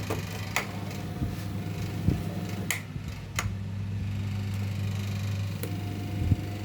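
Electric table fan motor running with a steady low hum, with several light clicks and knocks on top.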